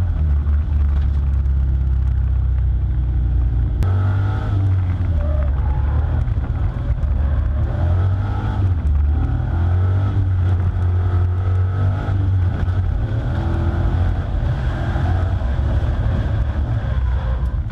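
Swapped LS2 V8 engine of a Toyota Tacoma X-Runner drift truck running hard, its revs rising and falling under throttle over a heavy low rumble.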